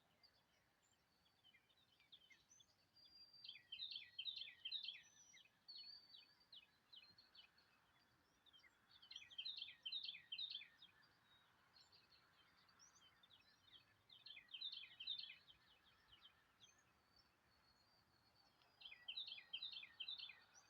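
Songbird singing: a short, fast phrase of high, quick downward-sliding notes, repeated four times about five seconds apart, with faint scattered chirps in between. The song is faint.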